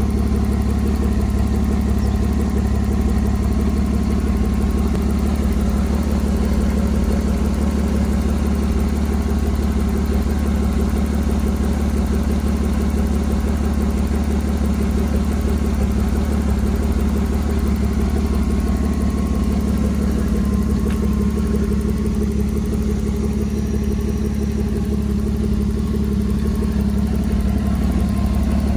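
Toyota 1G-FE 2.0-litre inline-six petrol engine of a Crown GS141 idling steadily, with no revving.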